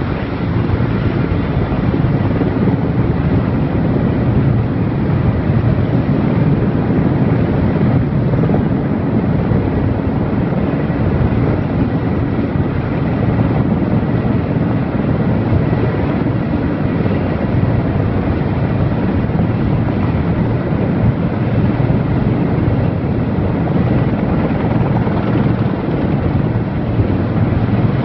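Erickson Air-Crane heavy-lift helicopter running through a lift, a loud, steady rumble of rotor and turbine engines that does not change.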